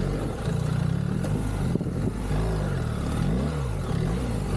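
BMW R1300GS boxer-twin engine under an off-road rider's throttle, its revs rising and falling several times, over steady wind and riding noise.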